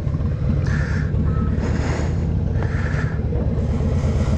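V-twin motorcycle engine idling steadily at low revs, its pitch holding level.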